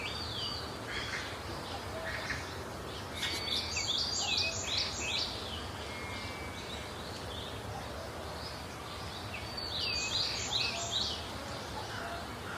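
Outdoor background with a bird singing: two phrases of quick, repeated, falling high notes, one a few seconds in and one about ten seconds in, over a steady low hiss.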